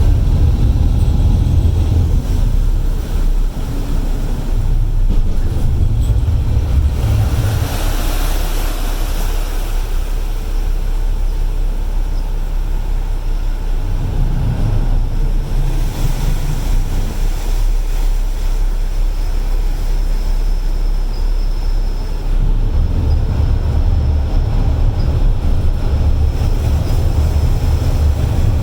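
Steady low rumble of a ferry's engines and water, with wind buffeting the microphone in several gusts.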